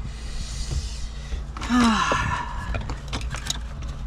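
A man's brief sigh, falling in pitch, about halfway through, after a soft hiss. Small clicks and knocks of parts being handled run around it.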